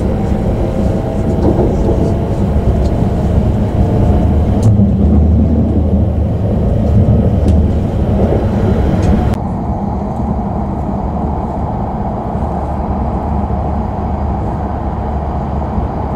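Shinkansen running, heard from inside the passenger cabin: a steady low rumble with a hiss over it. About halfway through the hiss drops away and the rumble becomes a little quieter.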